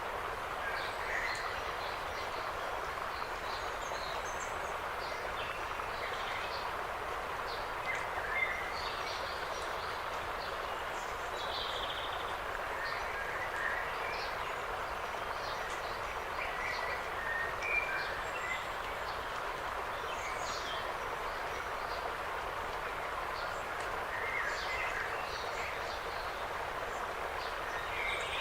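Forest ambience: small birds giving short chirps and calls scattered throughout, over a steady, even rush of background noise.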